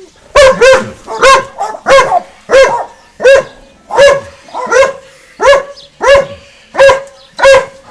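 Dog barking over and over at a steady pace, about a dozen loud barks roughly two thirds of a second apart, with quieter barks in between.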